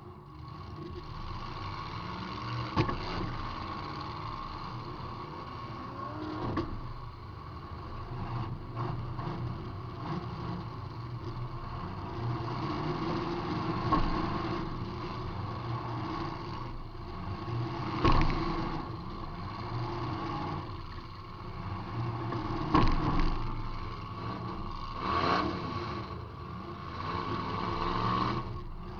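Demolition derby car's engine running and revving, heard from inside the car, with about six hard crashing impacts as it hits other cars; two of the hits, past the middle, stand out as the loudest.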